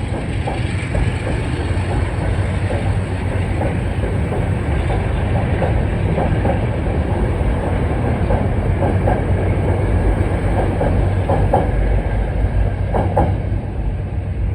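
Metro-North commuter train running through the station, a loud steady rumble of wheels on the rails.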